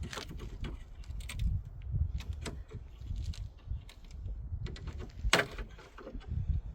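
Scattered clicks and knocks of car parts and tools being handled, with one sharper knock a little after five seconds in, over a low rumble.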